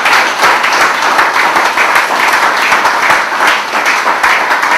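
Crowd of guests applauding, a loud, steady wash of many hand claps.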